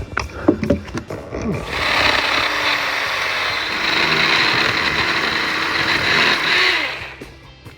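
Black+Decker electric chainsaw cutting through wood: a steady, loud run of about five seconds that starts a couple of seconds in and dies away near the end, preceded by a few knocks.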